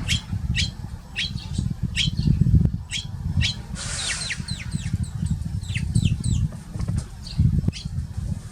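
Eurasian tree sparrows chirping, a quick run of short, falling calls, over a low, uneven rumble.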